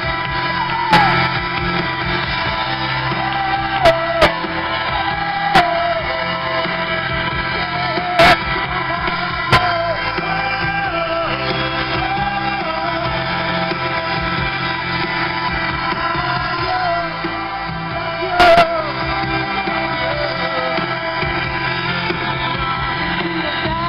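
Live rock band with a male singer, heard through a small camera microphone, with a handful of short sharp cracks cutting across the music.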